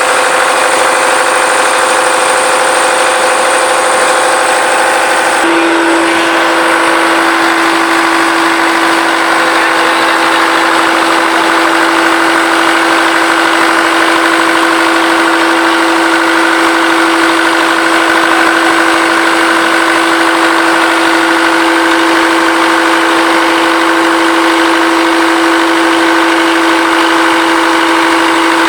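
Perkins L4 four-cylinder diesel engine running steadily, with a steady whine over the engine noise. About five seconds in, the whine steps slightly higher and louder, then holds.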